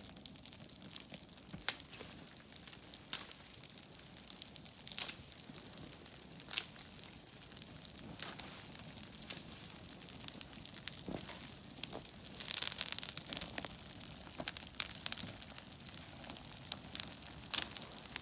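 Dry twigs being snapped by hand, sharp cracks about every second and a half, followed by a longer stretch of crinkling, rustling handling of tinder about two thirds of the way in.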